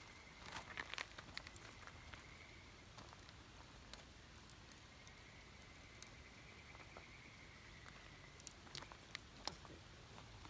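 Wood fire crackling faintly, with scattered sharp pops that bunch up near the start and again near the end.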